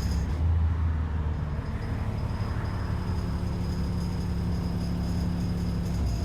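ADL Enviro 400 double-decker bus heard from inside, its diesel engine running with a steady low hum. A steadier, slightly higher drone joins about halfway through.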